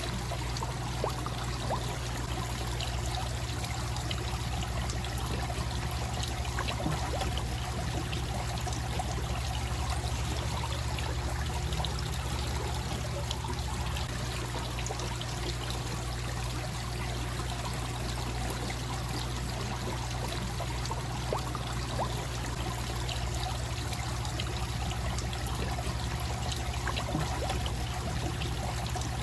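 Koi pond waterfall: water pouring and trickling steadily into the pond.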